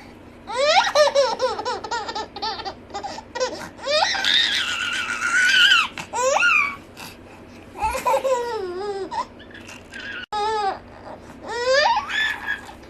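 A baby laughing in several bouts of quick, high giggles, with a long, high-pitched squealing laugh about four seconds in.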